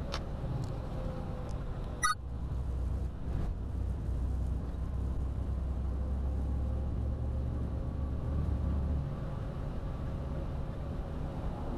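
Steady low rumble of a vehicle driving, with a single sharp click about two seconds in.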